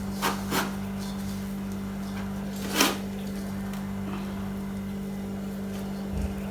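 A few short knocks or taps, the loudest about three seconds in and a dull thud near the end, over a steady low hum.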